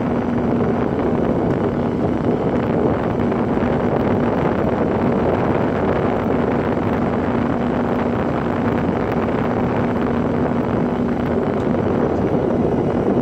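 Old Sharp Comfort Touch 8,500 BTU window air conditioner running on high: a steady rush of air with a really loud humming sound. The owner puts the hum down to the unit's age, not to anything rattling.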